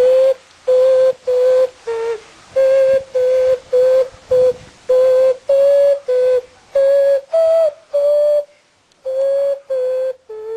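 Clay whistle blown in a long string of short, separate toots at nearly the same pitch, some bending slightly at the end, with a brief pause near the end.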